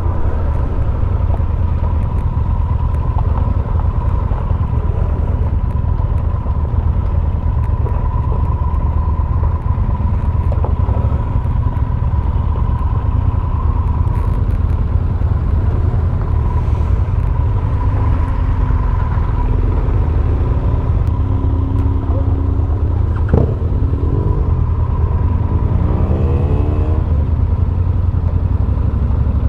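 Motorcycle riding, heard from a helmet camera: steady engine and wind rumble with a thin steady whine. Near the end the engine note climbs as the bike accelerates.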